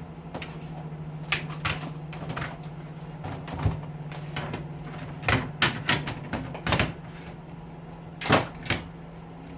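Irregular clicks and knocks of the plastic and metal parts of an electric hedge trimmer being handled and pulled apart, with a cluster of knocks about halfway through, over a steady low hum.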